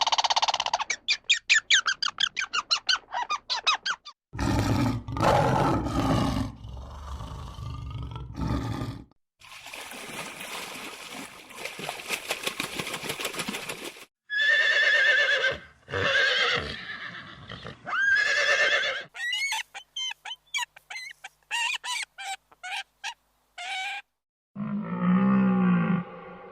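A run of different animal calls, changing abruptly every four to five seconds as one short clip gives way to the next, with rapid repeated calls in some stretches and single drawn-out calls in others.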